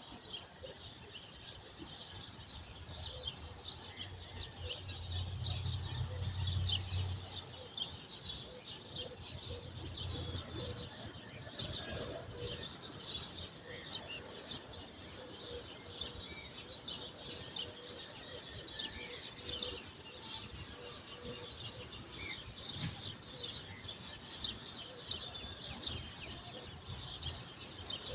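Many small birds chirping and singing at once in a dense, continuous dawn chorus. A low rumble swells and fades about four to eight seconds in, and again briefly around ten seconds.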